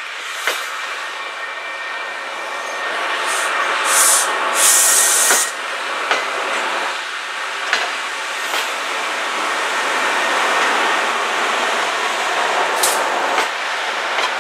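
MBTA commuter rail coaches rolling past over a grade crossing: a steady rush of wheels on rail with scattered sharp clicks at the rail joints and short high hisses, the loudest hiss about four to five seconds in.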